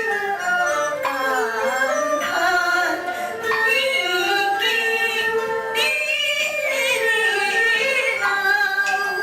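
Taiwanese opera (gezaixi) singing: a high, likely female voice holding long, wavering notes with strong vibrato over instrumental accompaniment.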